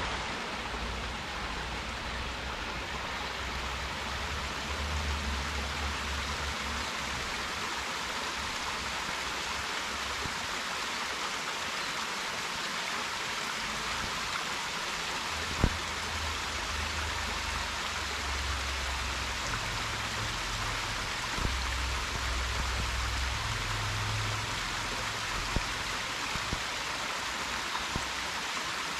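Stream water rushing and splashing in a steady hiss, with an uneven low rumble underneath and a few sharp clicks, the loudest about halfway through.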